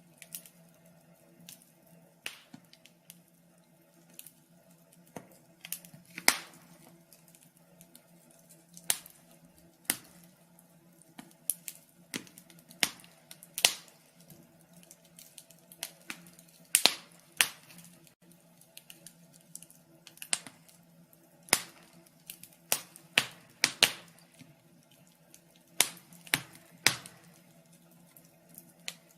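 Wood fire crackling: irregular sharp pops and snaps, some in quick clusters, over a faint steady hum.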